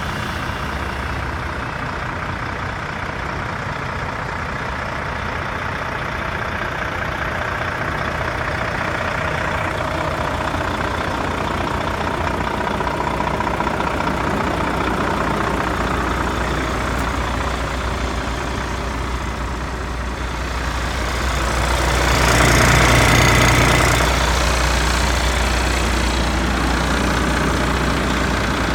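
Volvo FH 13.440 truck's 13-litre straight-six diesel engine idling steadily, swelling louder for about two seconds roughly three-quarters of the way through.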